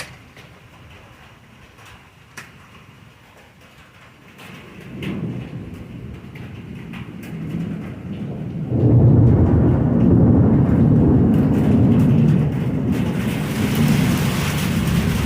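Thunder from a nearby lightning strike: a low rumble builds from about five seconds in and becomes a long, loud rolling rumble for the last six seconds or so.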